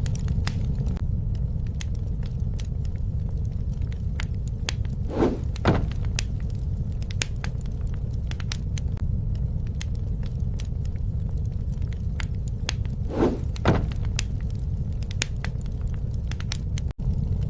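Wood fire crackling and popping over a steady low roar of flames, with a brief louder rush about five seconds in and again about eight seconds later. The sound cuts out for an instant near the end.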